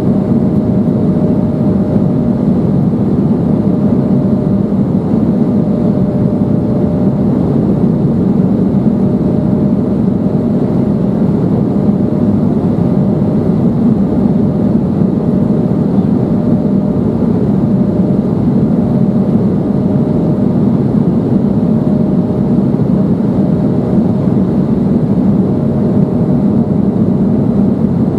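Steady cabin noise inside an Embraer 175 airliner climbing: the even low rush of airflow and its twin GE CF34-8E turbofan engines, with a thin steady tone running through it.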